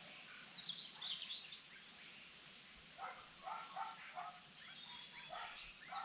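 Forest birdsong over a steady background hiss. Quick high chirps come about a second in, then a run of five or six lower, short repeated calls between about three and four and a half seconds.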